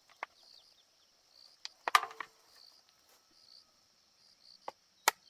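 Five sharp knocks, the loudest about two seconds in, over a steady background of chirping insects.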